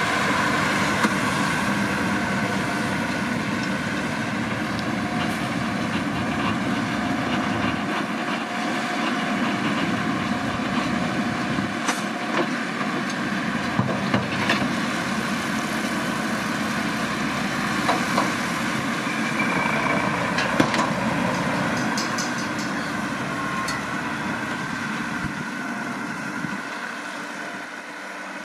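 Massey Ferguson 7620 tractor's six-cylinder diesel running steadily under load while pulling a McHale V660 baler, with a few short sharp knocks from the working machinery. The sound fades somewhat near the end.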